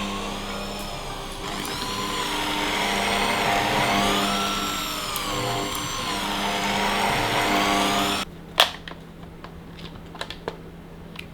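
A small electric motor appliance running loudly, its pitch wavering up and down, then switching off abruptly about eight seconds in. A few sharp clicks and knocks follow over a low steady hum.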